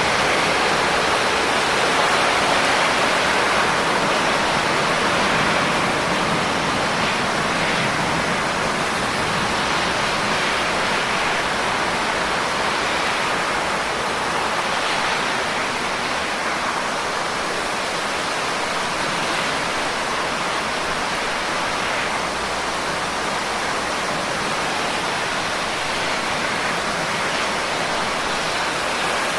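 Steady heavy rain, a dense even hiss of falling drops with no separate strikes standing out; it eases slightly about halfway through.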